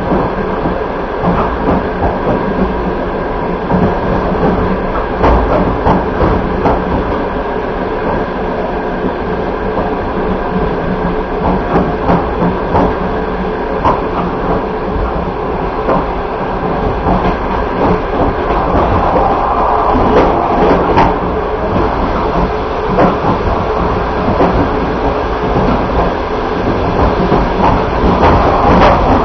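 Passenger train running on the rails, heard from inside the coach: a steady rumble with scattered sharp wheel clicks and knocks, growing somewhat louder near the end.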